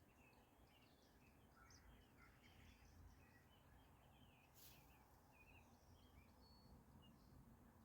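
Faint, quick bird chirps and calls from several birds over a low, steady outdoor rumble, with a brief sharp click about four and a half seconds in.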